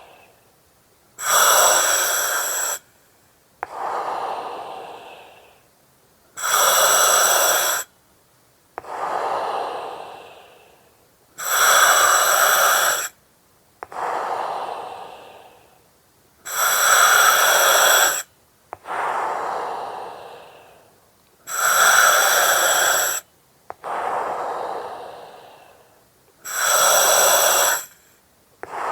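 Slow, regular breathing through an oxygen mask, about six breaths. Each breath is a short, even hiss from the mask's regulator with a whistling edge, cutting in and out sharply, followed by a longer, duller breath that fades away.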